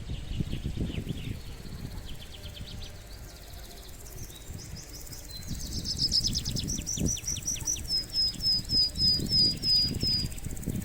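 A small songbird singing: fast, high trills, then a run of short, clear whistled notes, about three a second, each slurring downward. A low rumble runs underneath.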